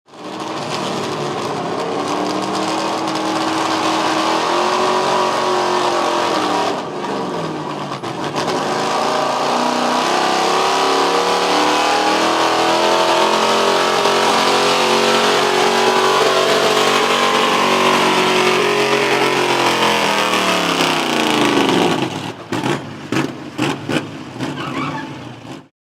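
A stock pickup truck's engine running at full throttle while pulling a weight sled, with a short lift about seven seconds in and then a long hard pull whose pitch slowly sags near the end as the load grows. It finishes with several short throttle blips before cutting off suddenly.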